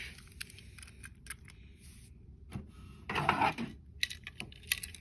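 Small toy trains being handled: scattered light clicks and taps, with a louder clatter about three seconds in as the toys are set down and picked up.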